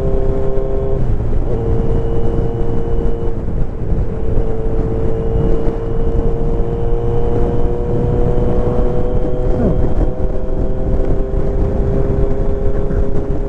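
Kawasaki Z900's inline-four engine running at a steady cruise, its note climbing slowly as the bike gathers speed, with a short change in the note about a second in. Wind rush on the helmet-mounted microphone runs under it.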